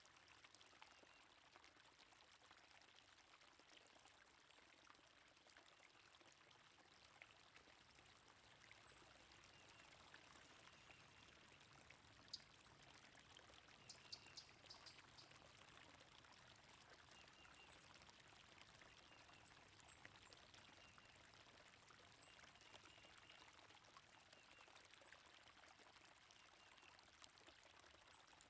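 Faint, steady rush of flowing water, with short high bird chirps scattered through it.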